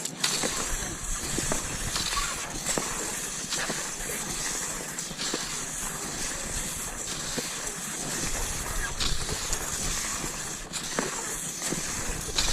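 Cross-country skis hissing as they slide over snow, with frequent small crunches and clicks.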